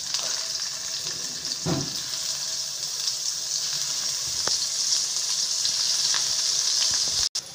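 Paneer cubes frying in hot ghee in a frying pan: a steady sizzle that grows a little louder as more cubes go in, with a couple of faint clicks. The sound drops out briefly near the end.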